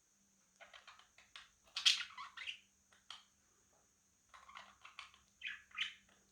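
Budgerigars chirping and squawking in short clusters of quick calls, the loudest about two seconds in and another run near the end.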